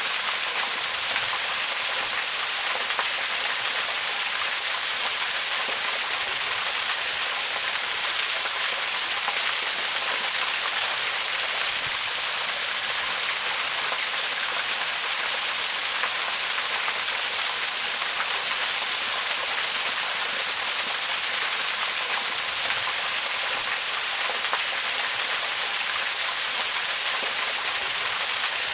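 Waterfall: a steady, even rush of falling water, mostly a high hiss with little low rumble.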